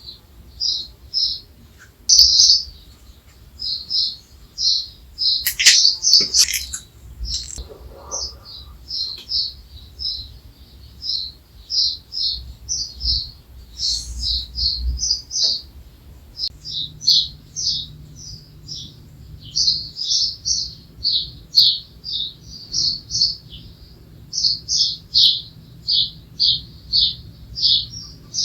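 Birds chirping: a steady run of short, high chirps, about two a second, with a few sharp clicks around six seconds in.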